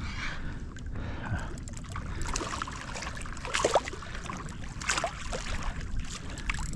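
Water splashing and trickling around a kayak hull, with irregular splashes between about two and five seconds in, over a steady low rumble.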